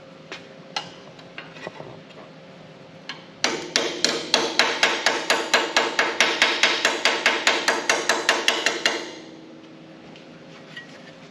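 Hammer striking a sheet-metal cab corner patch panel: a few light taps, then from about three and a half seconds in a quick, even run of ringing blows, about five a second, that stops about nine seconds in. The hammering is shaping the panel's edges at the relief cuts.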